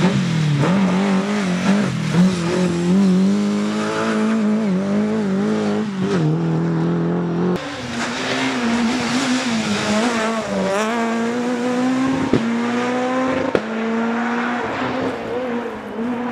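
Rally car engines at full throttle on a special stage, their pitch climbing and dropping again and again with gear changes and throttle lifts. The sound jumps abruptly several times, about six, seven and a half, twelve and thirteen and a half seconds in, as one car's run cuts to another's.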